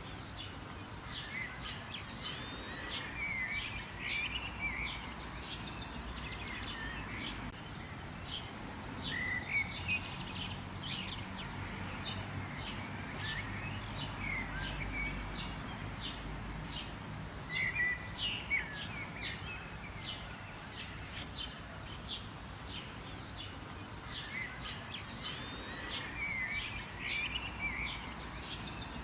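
Birds chirping and singing: a steady run of many short, quick chirps with a warbled song phrase every few seconds. A faint low rumble sits underneath about midway.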